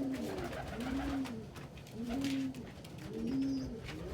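Domestic pigeons cooing: a steady run of low coos, each rising and falling in pitch, about one a second.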